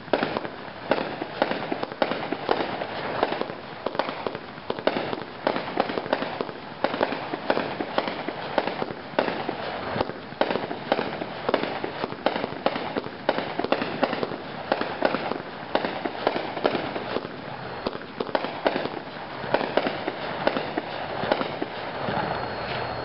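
A 36-shot consumer firework cake of multicolor peonies firing: a fast, unbroken string of sharp shots launching and bursting, several a second.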